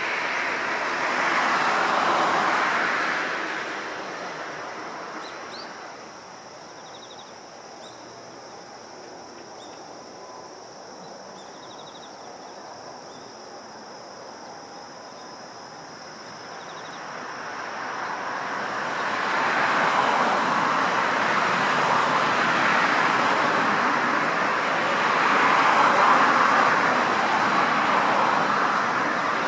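Road traffic passing: a vehicle's tyre and engine noise fades out in the first few seconds, then another rises about two-thirds of the way in and stays loud to the end, with a steady high-pitched whine underneath.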